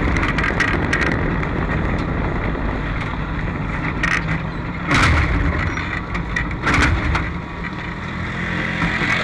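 Race car engine running unevenly, with two sharp loud surges about five and seven seconds in, then settling into a steady idle near the end. The car has been hard to start when hot and hitting intermittently.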